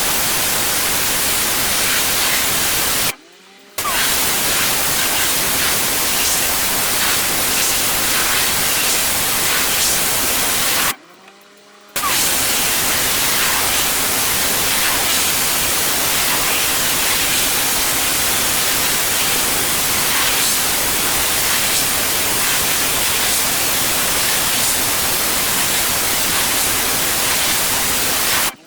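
A pressure washer's jet spraying steadily with a loud hiss. The spray stops abruptly twice for under a second, about three seconds in and again around eleven seconds, and once more at the very end, when the much quieter running of the machine shows through.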